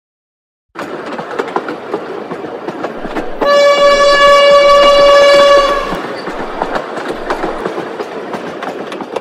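Train running on the rails, a steady rumble with the clack of wheels over the rail joints. About three seconds in comes a loud horn blast on one steady note, held for a little over two seconds.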